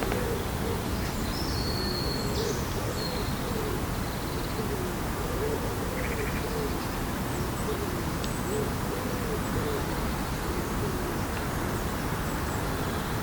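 A bird's low hooting calls, short notes repeated over and over, against a steady outdoor background hiss; a brief high bird call comes about a second in.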